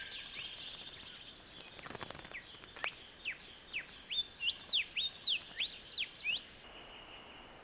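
A bird calling: a quick run of about a dozen short whistled notes, each sliding sharply up or down in pitch, about three a second, over a thin steady high tone. The calls stop near the end.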